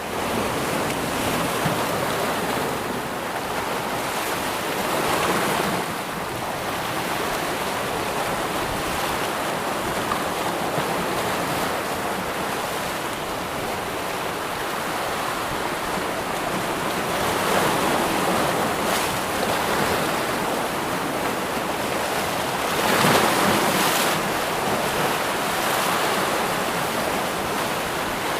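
Waterfall and running water: a steady rushing noise that swells and eases gently every several seconds.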